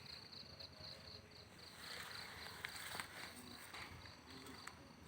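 Faint cricket chirping, an even rapid pulsing that fades out about a second and a half in, followed by a soft rushing noise with a few sharp clicks.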